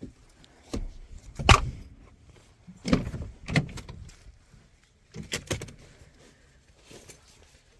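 A few short knocks and clunks in three clusters: about a second in, around three seconds in, and a little past five seconds in.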